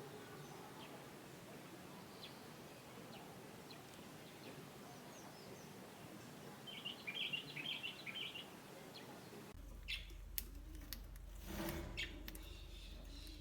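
Small birds chirping faintly, with a quick run of short high chirps about halfway through. Later the background changes to a low hum with a few clicks.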